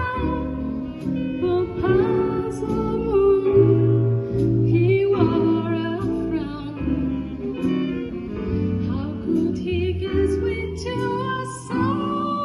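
A jazz ensemble playing a slow ballad live: a melody line gliding between held notes over bass notes and chords.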